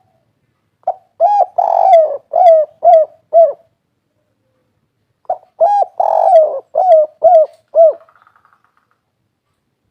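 Spotted dove (derkuku) cooing its 'kuk 3' song: two phrases about two seconds apart. Each phrase is a short lead note, a longer drawn-out coo, then a run of shorter coos, six notes in all.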